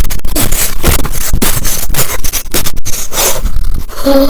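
Loud, continuous scraping and rustling with many quick knocks, from toys being handled roughly close to the microphone.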